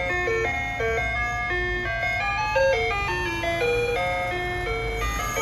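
Soft-serve ice cream truck jingle: a simple electronic chime melody of clean, stepped notes played over the truck's loudspeaker, with a steady low rumble underneath.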